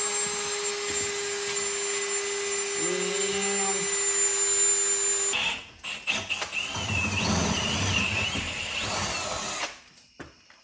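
An electric power tool running with a steady whine for about five seconds, then a second run of about four seconds with a wavering pitch, stopping near the end.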